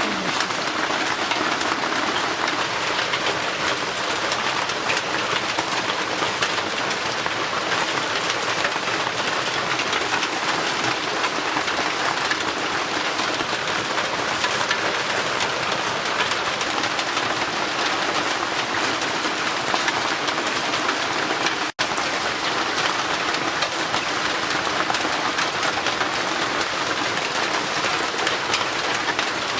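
Heavy rain falling steadily on a roof, an even, dense hiss that stays at the same level throughout and cuts out for a split second about three-quarters of the way through.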